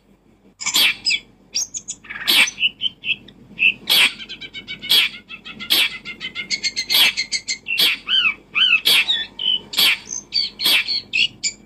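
Birds chirping and calling close by: harsh calls about once a second, mixed with rapid trills and short curved chirps.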